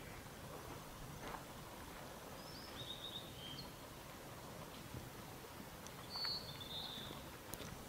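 Faint outdoor ambience with a small bird chirping: a quick run of high notes about two and a half seconds in, and another about six seconds in.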